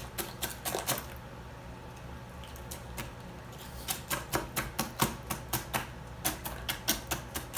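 Tortilla chips crunching in sharp, close cracks: a few in the first second, a pause, then a steady run of about three to four crunches a second from about four seconds in.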